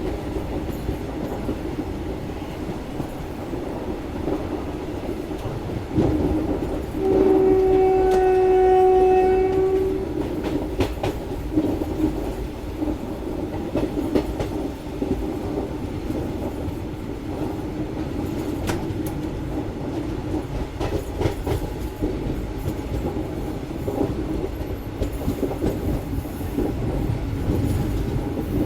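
Koyna Express running along the line, a steady rumble with wheels clicking over rail joints now and then. About seven seconds in, a train horn sounds one steady blast of about three seconds.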